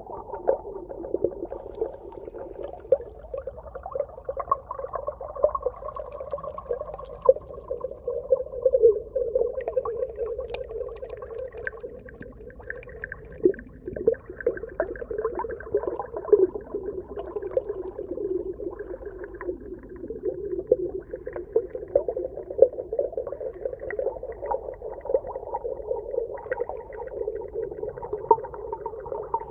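Underwater ambience: a continuous, muffled bubbling and gurgling crackle, dense and unbroken throughout.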